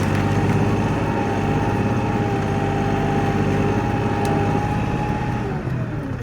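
Kioti NX4510 tractor's diesel engine running steadily at high revs, then throttled down, its pitch falling, about five and a half seconds in.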